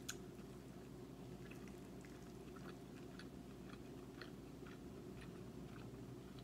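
Faint eating sounds: chewing with scattered soft mouth clicks while eating angel hair pasta in Alfredo sauce, over a steady low hum.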